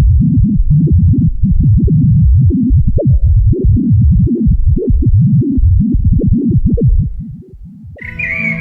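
Loud electronic music of dense, fast, irregular low throbbing pulses. It fades out about seven seconds in, and near the end higher chirping sounds enter over held steady tones.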